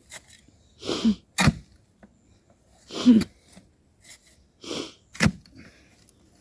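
Hole being dug by hand in rocky ground: a hard, sneeze-like exhale about every two seconds, two of them ending in a sharp strike of the tool into the ground.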